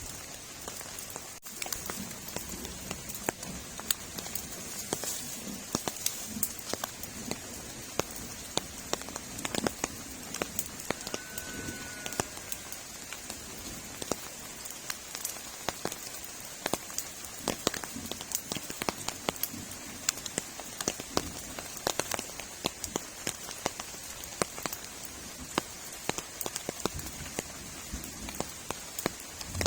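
Heavy rain falling steadily, with many sharp, separate drop hits close by among the steady hiss.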